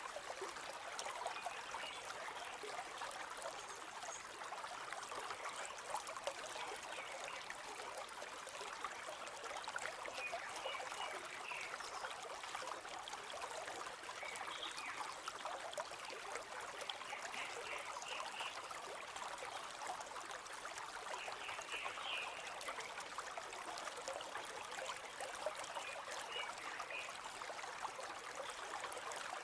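A river flowing steadily, an even rush of water. Short bird chirps break in now and then.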